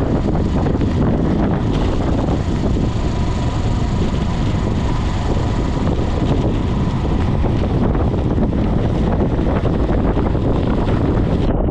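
Wind rushing over the microphone of a camera on a bicycle descending fast: a loud, steady rumbling noise.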